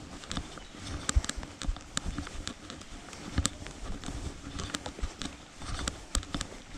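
Footsteps on a dirt path: irregular crunching clicks and soft low thumps, a few a second.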